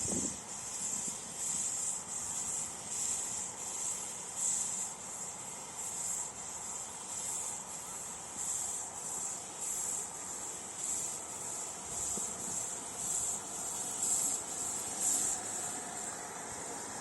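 Steam locomotive hissing steam, a high hiss that swells and fades about once or twice a second.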